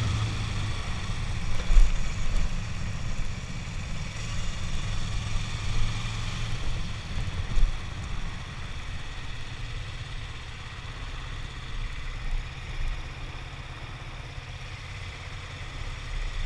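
Kawasaki Ninja 250 sport bike's engine running with a low, steady rumble, slowly growing fainter, with wind noise on the microphone.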